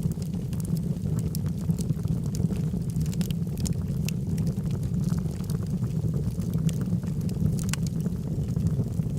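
Log fire burning, with frequent small sharp crackles and pops over a steady low rushing sound of the flames.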